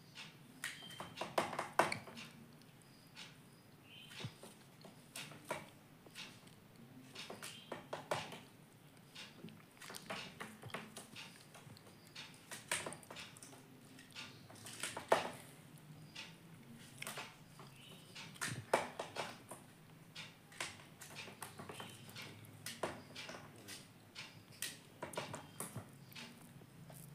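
Indian ringneck parrot tapping and pecking with its beak: irregular sharp clicks and knocks, some in quick clusters, a few louder.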